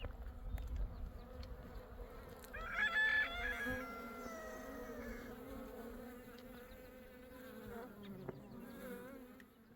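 A flying insect buzzing close by, a steady hum that wavers a little in pitch, loudest about three seconds in and fading near the end. Low wind rumble in the first second.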